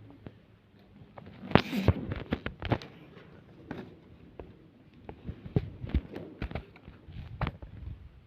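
Paper being handled and folded on a table: irregular light taps and clicks, with a short rustle of paper about a second and a half in.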